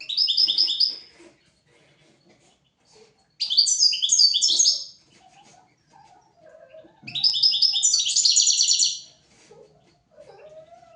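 European goldfinch singing: three bursts of rapid, trilled high notes, each one to two seconds long, with short pauses between them.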